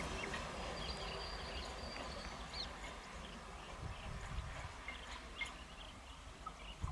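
Faint low rumble of an approaching diesel electric multiple unit (DEMU) train, fading slowly, with a few soft low knocks. Short high bird chirps sound over it.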